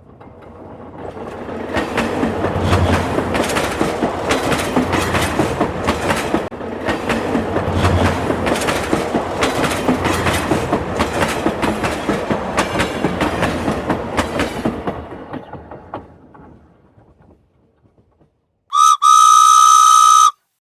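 A train passing: the wheels clack over the rail joints as the sound builds up, holds, and fades away. Near the end the train's horn sounds, a brief toot followed by a longer blast.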